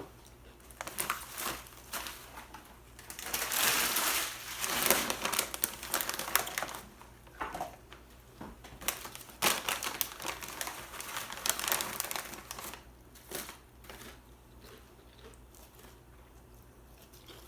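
Plastic chip bag crinkling and rustling as it is handled, heaviest in the first half, then scattered short crackles and crunches that thin out.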